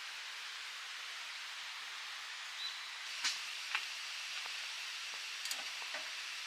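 Food sizzling in a hot pan: a steady hiss, with a few sharp pops and crackles starting about three seconds in.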